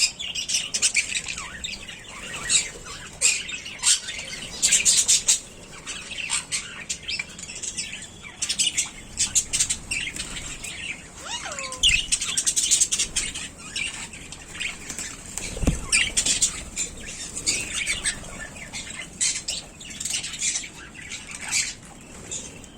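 Birds chirping and squawking: many short, high-pitched calls in quick succession throughout.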